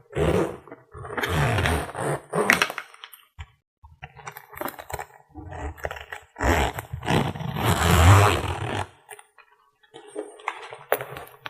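Close-miked rustling and scratching of makeup tools being handled, in irregular bursts with a longer stretch in the middle and a few sharp clicks near the end.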